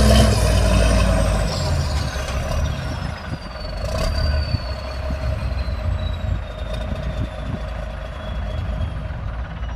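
Heavy diesel engine of an earthmoving machine dropping from a loud pull to a lower, rougher running, with a high whine that falls slowly in pitch throughout.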